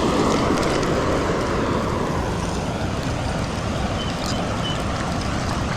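Steady rush of a waterfall's falling water, an even roar without a break.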